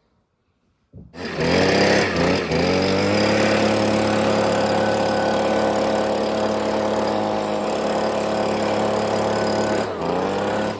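Two-stroke chainsaw running at full throttle through a pine log on a chainsaw mill. It comes in suddenly about a second in, dips and climbs back to a steady high pitch, and its pitch drops near the end.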